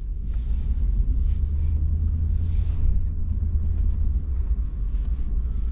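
Pickup truck driving through snow: a steady low engine and road rumble.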